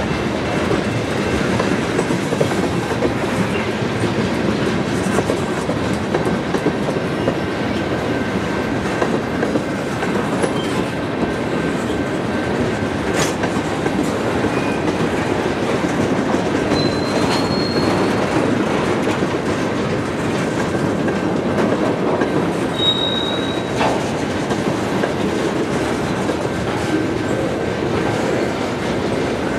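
Railroad cars rolling past on the track, wheels clattering steadily over the rails, with two brief high wheel squeals in the latter half.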